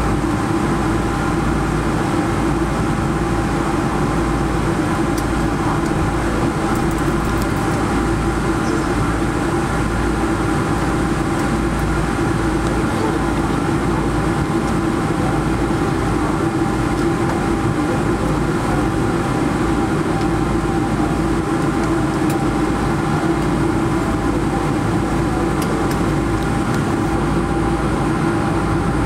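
Boeing 777-300 cabin noise while the airliner taxis in after landing: a steady engine and air hum with several constant whining tones and a few faint clicks.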